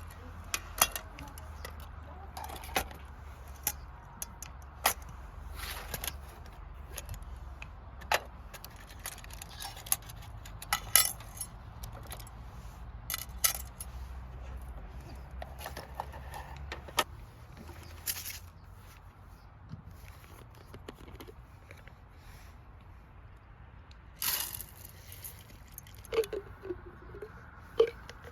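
Scattered sharp clicks and metallic clinks of camp cooking gear and utensils being handled, irregular throughout, with a cluster of louder clinks near the end.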